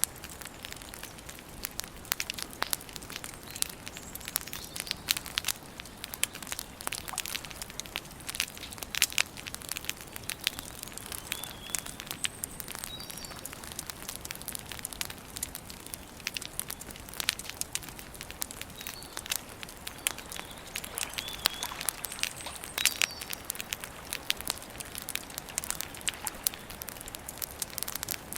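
Wood campfire crackling and popping steadily, with dense irregular snaps. A bird chirps briefly a few times in the background.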